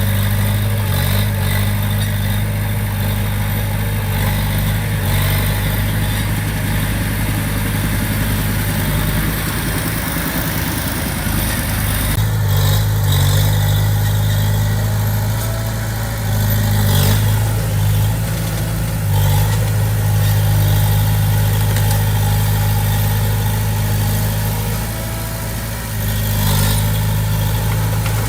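Komatsu D20P bulldozer's diesel engine running steadily at a working pace, with a few short metallic clanks.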